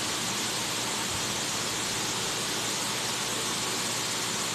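Steady, even hiss with nothing else over it: the recording's background noise between narrated lines.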